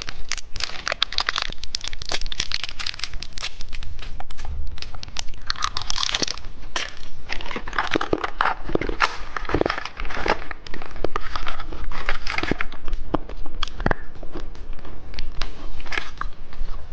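A small candy from a blind box being crunched and chewed, with crinkling of its wrapper. Dense, irregular crunches and crackles go on throughout.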